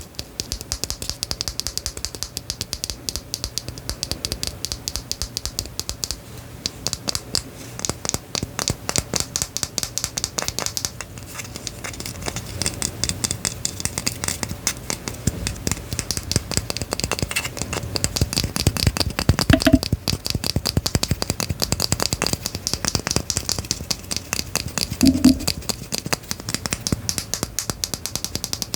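Rapid, dense clicking and tapping, many small clicks a second, with two louder, duller knocks about two-thirds of the way through and again some five seconds later.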